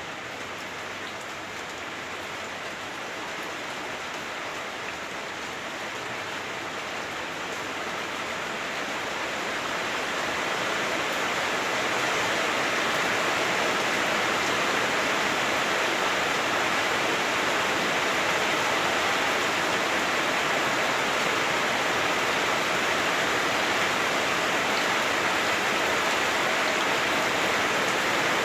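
Heavy rain drumming on a house roof, heard from inside the house: a dense, even hiss that grows louder over the first ten or so seconds, then holds steady.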